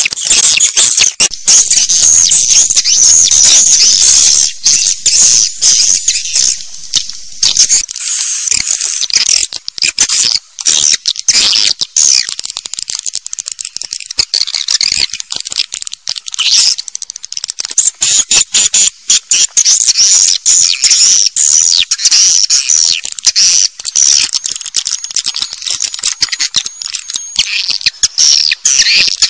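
Swiftlets twittering in a dense, unbroken chorus of high chirps, laced with rapid clicking. It is the swiftlet call sound played from speakers to lure swiftlets into a nesting house.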